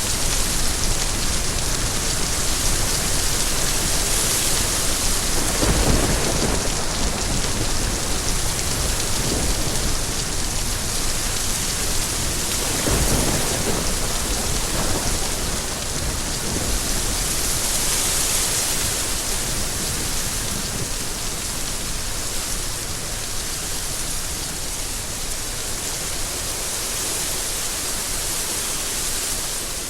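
Steady rain falling, a dense hiss, with low rumbles of thunder rolling in about six seconds and again about thirteen seconds in.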